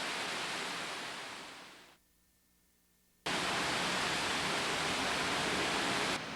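Torrential rain falling hard, a steady dense hiss. It fades out about two seconds in, goes silent for about a second, then cuts back in suddenly.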